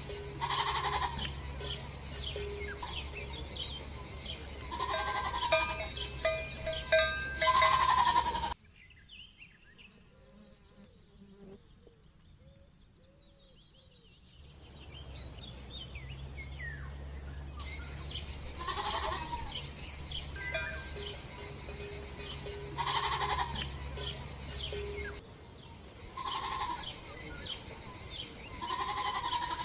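Bleating farm animals, a string of repeated calls. About eight seconds in the sound drops abruptly to a much quieter stretch of about six seconds, then the calls resume.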